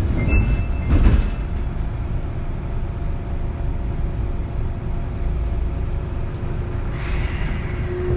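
Interior running noise of a Kintetsu 3200 series electric train's motor car: a steady rumble of wheels on rail, with a brief clatter about a second in and a short hiss near the end.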